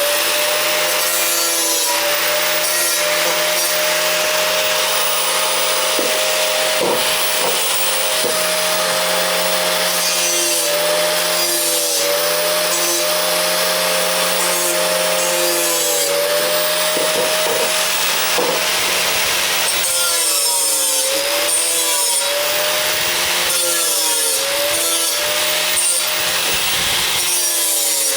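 Angle grinder with a 36-grit flap disc grinding metal, smoothing out cut slots. The motor runs at a steady whine over a harsh grinding hiss, its pitch dipping briefly each time the disc is pressed harder into the work, several times in the last third.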